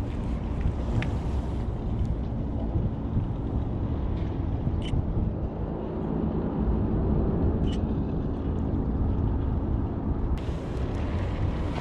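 Wind rumbling on the microphone at the waterfront, over a low steady hum.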